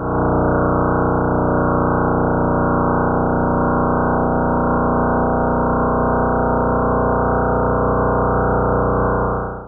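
A steady, dense drone of many layered tones that holds unchanged, then cuts off abruptly near the end: a space probe's radio or plasma-wave recording converted into audible sound.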